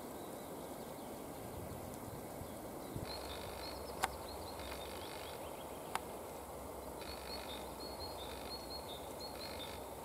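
Quiet woodland background; from about three seconds in, a songbird sings two phrases of short, high repeated notes. Two sharp clicks about two seconds apart are the loudest sounds.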